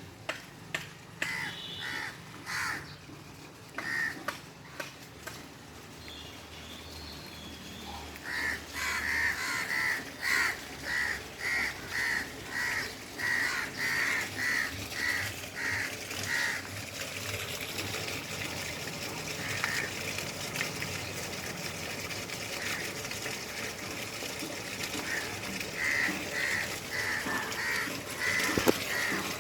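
A bird cawing in a long run of short calls, about two a second. Then a steady rush of water builds and carries on, with a few more caws near the end: water flowing through the cleared rain drain.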